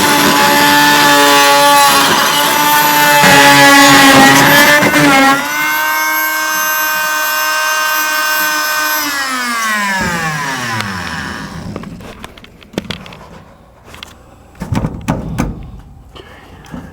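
Fein MultiMaster oscillating multi-tool running with a loud, steady high buzz, cutting the nails that fasten a return-air trunk line to the joists, rougher for the first few seconds while the blade bites. About nine seconds in it is switched off and winds down with falling pitch, followed by a few knocks and handling clatter.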